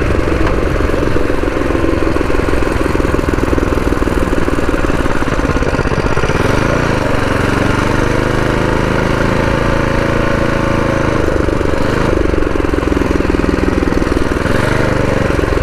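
Predator 212 single-cylinder four-stroke engine on a mini bike running under way. Partway through it revs up, holds a steady higher pitch for a few seconds, then drops back. It is being ridden easy, short of full throttle, because the engine is still in break-in.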